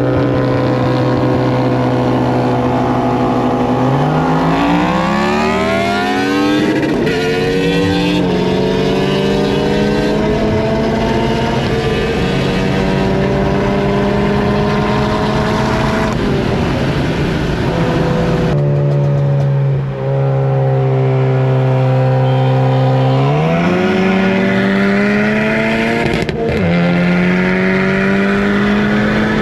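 Car engine running under way, its pitch climbing smoothly as it accelerates a few seconds in, then holding steady. Near the middle the pitch drops suddenly and then climbs again as it accelerates a second time.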